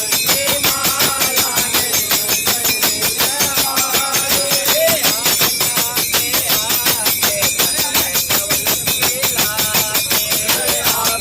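Voices singing over a fast, steady beat of sharp percussive strokes, about four a second.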